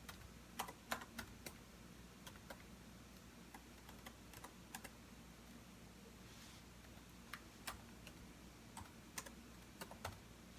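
Typing on a computer keyboard: faint, irregular key clicks in short flurries separated by pauses of a second or two, over a low steady hum.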